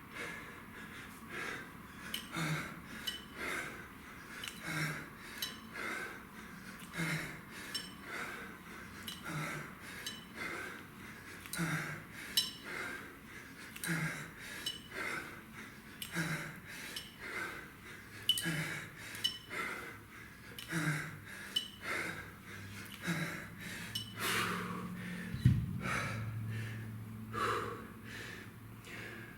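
A man breathing hard in quick, rhythmic breaths through a kettlebell exercise set. A single sharp thump comes about 25 seconds in.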